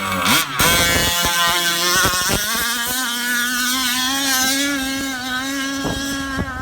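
Unsilenced two-stroke 30.5cc gas engine of a Losi Monster Truck XL RC truck, revving up sharply in the first half second and then held at high, nearly steady revs through its open expansion pipe.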